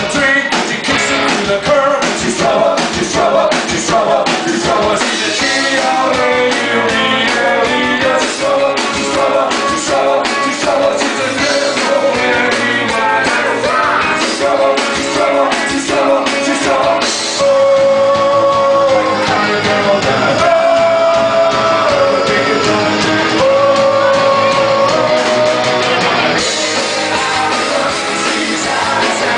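Rock band playing with drums, electric guitar and singing. About halfway through the drumming thins out under long held notes, then comes back in full near the end.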